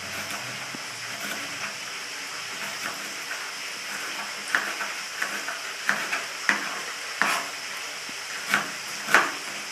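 Food sizzling steadily as it fries in oil. From about halfway through, a knife strikes a cutting board in a series of uneven sharp knocks as vegetables are chopped into small pieces.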